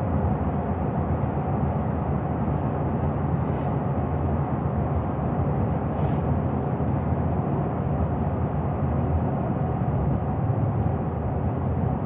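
Steady road and engine noise of a moving vehicle heard from inside the cab: an even low rumble that does not change.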